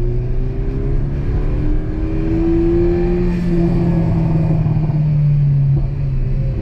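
Ford Focus ST's turbocharged four-cylinder engine with a Borla cat-back exhaust pulling hard in first gear, its revs climbing toward about 5,000 RPM over the first few seconds and then holding high.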